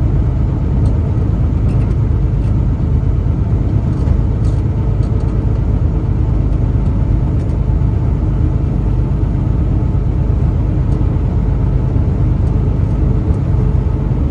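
Truck being driven, a steady low rumble of engine and tyres on the road, with a few faint clicks.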